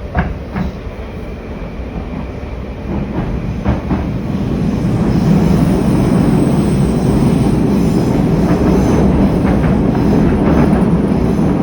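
Moscow Metro 81-775/776/777 train running through the tunnel, heard from inside a car: steady wheel and track rumble with a few knocks over rail joints, growing louder about five seconds in and staying loud, with a faint high wheel squeal.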